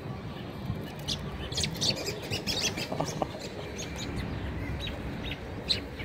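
Bird chirping in many short, sharp notes, busiest in the first half.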